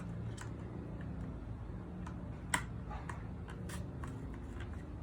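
A scissor point being pushed through the side of a cardboard milk carton to poke a hole, with scattered light clicks and taps as the carton is handled and one sharp click about two and a half seconds in.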